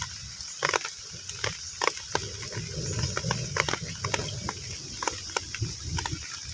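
Heavy rain falling on a pond's surface: a steady hiss with individual drops plinking irregularly into the water, over a low rumble that swells in the middle.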